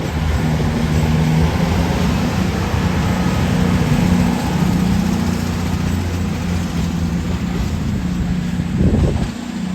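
A diesel train's engine running with a steady low drone, which drops away near the end.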